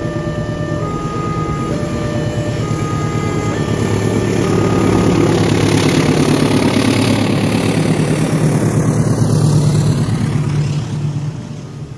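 Diesel locomotive hauling a passenger train past close by: a loud, steady low engine hum, with the rumble of the coaches on the rails, builds about four seconds in and drops off near the end.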